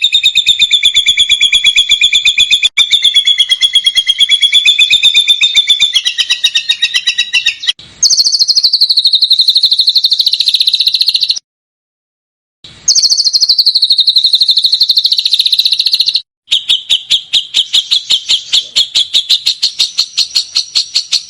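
Songbird song in rapid-fire trills of repeated sharp notes. A dense trill comes first, then two matching trills that start high and fall, each cut off by a short silence, then a slower trill of about five notes a second.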